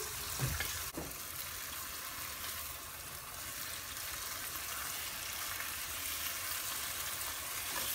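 Chicken pieces frying in oil with tomato paste and ketchup in a nonstick pan, giving a steady sizzle as they are stirred with a spatula. A couple of light knocks come about a second in.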